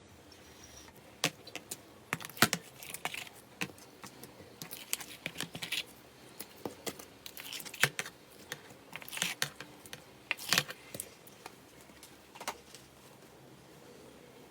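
Slime being handled, pressed and pulled by hand, making irregular crisp clicks and crackles, some in quick little clusters.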